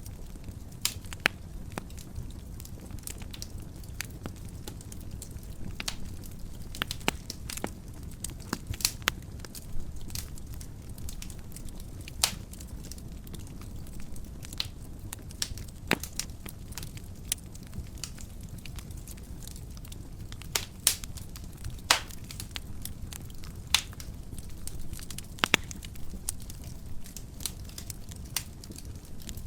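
Wood fire in a fireplace crackling: a steady low rumble of the flames with irregular sharp pops and snaps from the burning logs.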